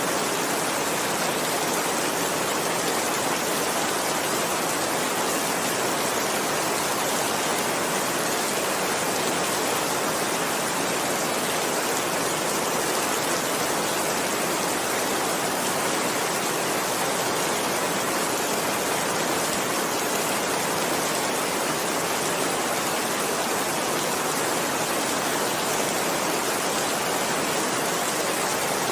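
Heavy rain falling steadily: a dense, even hiss with no single drops, thunder or changes standing out.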